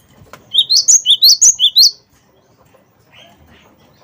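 Cinereous tit (gelatik batu) singing: one quick, loud phrase of about four repeated rising two-note figures, then a pause.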